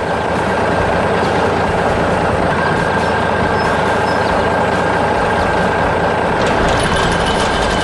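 Heavy construction-machine engine running steadily, with a high, steady whine over the engine noise.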